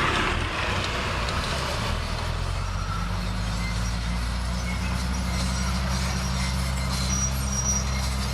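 Bulldozer's diesel engine running steadily: a low, even drone that settles into a smooth hum about three seconds in.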